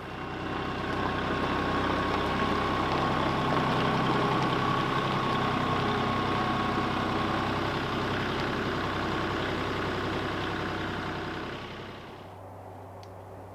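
An engine running steadily, then stopping about twelve seconds in.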